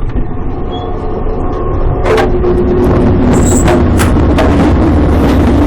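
Steady low rumble of a moving freight train, with a few sharp clanks and knocks. It grows louder about two seconds in.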